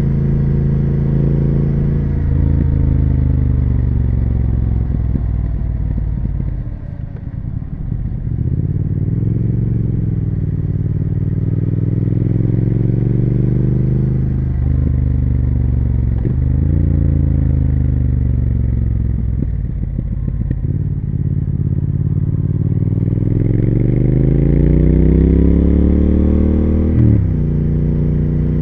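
Triumph Speed Twin 1200's parallel-twin engine and exhaust under way. The revs drop off about seven seconds in, then rise and fall through several gear changes. Near the end a long rising pull ends in a quick shift.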